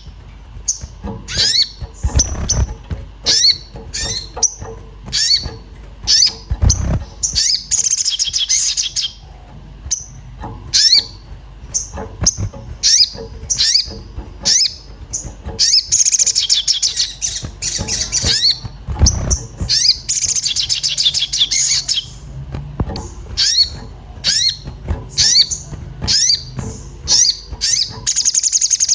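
Crimson sunbird (sogon) calling in an agitated state: rapid sharp 'cuit cuit' chirps, one after another, broken by several high, fast trills lasting a second or two. This excited calling is the kind used as a lure sound to draw other sogon.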